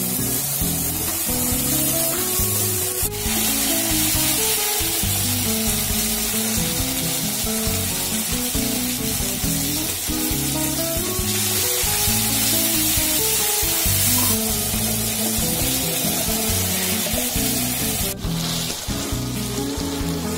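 A frying masala sizzling steadily in a wok while it is stirred with a wooden spatula. Background music with a melody of held notes plays over it.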